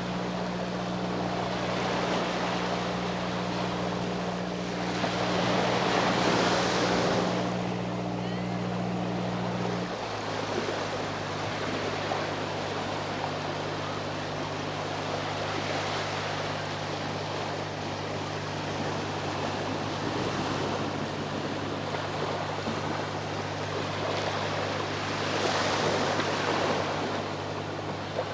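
Sea waves washing onto the shore, swelling loudest twice, over a steady low hum of a boat engine whose pitch steps down suddenly about a third of the way through.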